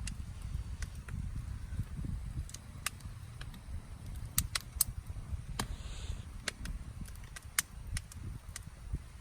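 Wood campfire crackling: irregular sharp pops and snaps, one or two a second, over a steady low rumble.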